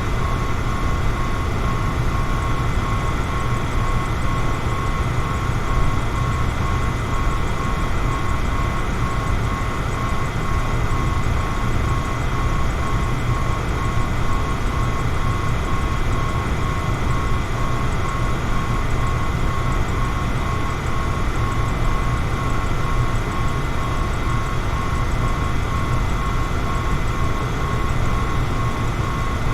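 Electric fan running steadily: an even rushing noise, heaviest in the low end, with a faint steady whine on top.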